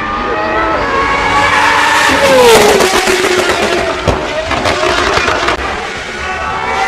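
Race car engine revving higher, then lifting off about two seconds in with its pitch falling, and a rapid string of exhaust pops and crackles for a couple of seconds before it picks up again.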